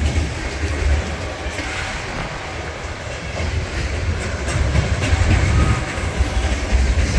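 Freight train rolling past with a steady low rumble, its wheels clacking over the rail joints.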